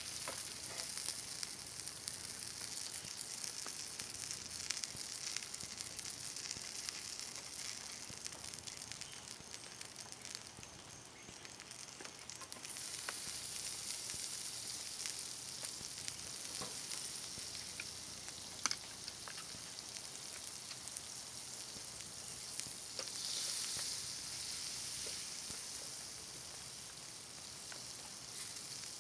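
Butter sizzling and crackling in a skillet as a small fry pie fries over low heat on a gas camp stove, a steady high hiss with scattered pops that eases a little about a third of the way in, then picks back up.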